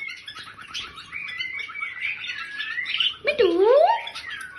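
Pet parrot chattering: a quick run of short, high chirps and squeaks. A voice says 'mittu' about three seconds in.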